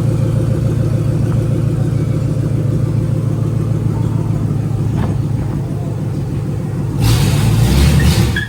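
V8 engine of a three-valve Mustang idling steadily, then revving up about seven seconds in with a louder rush of exhaust.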